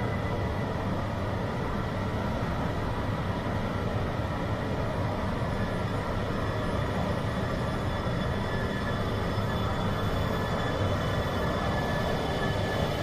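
Coupled E3-series and E2-series Shinkansen trainset pulling out of the station, a steady running noise with thin, faint high tones over it.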